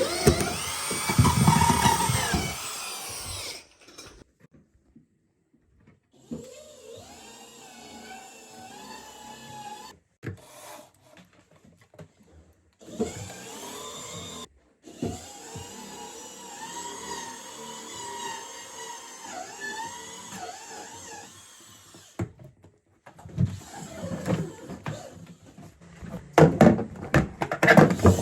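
Workshop power tools and machinery whining and clattering in short stretches, each cut off abruptly, with louder clatter near the start and the end.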